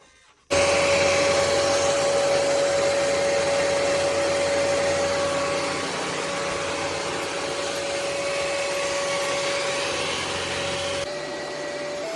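Ecovacs Deebot T80 Omni robot vacuum running, a loud steady rush of suction noise with a steady whine on top. It switches on abruptly about half a second in and drops a little in level near the end.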